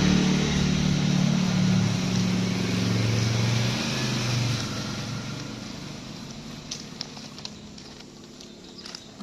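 A motor vehicle passes by: the engine note drops in pitch and the sound fades away over about five seconds. A few light clicks follow near the end.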